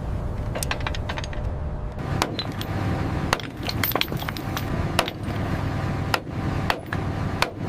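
Tie-down chains and binders clanking against steel while military vehicles are chained down on a rail car: a dozen or so sharp metallic clinks and knocks at irregular intervals over a steady low rumble.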